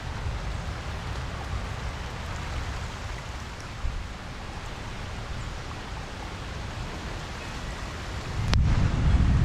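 Steady rain falling on a pond, a continuous even hiss over a low rumble. About eight and a half seconds in, the low rumble swells and the sound grows louder.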